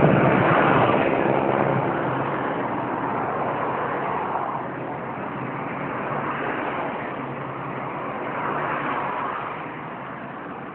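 Road traffic: a motor vehicle's engine passing close, loudest at first and fading gradually over several seconds.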